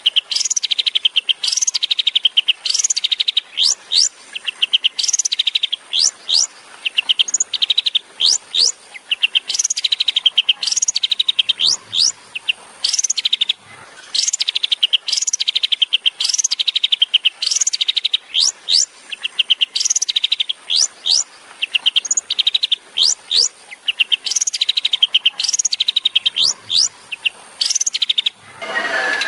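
Long-tailed shrike (cendet) singing its rapid 'tembakan' song: a fast buzzy trill followed by quick high whistled sweeps, the phrase repeated about once a second.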